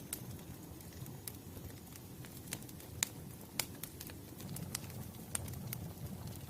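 Wood fire crackling: irregular sharp snaps and pops, roughly one or two a second, over a steady low rumble of burning.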